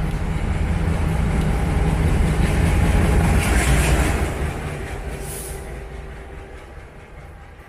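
Indian Railways train passing by, a loud rumble of wheels on the rails that builds to a peak about four seconds in, then fades steadily as it moves away.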